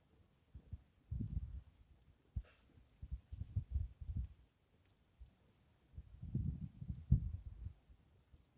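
Air buffeting the microphone in low, rumbling gusts that come and go in several surges, over the faint small crackles of a wood campfire.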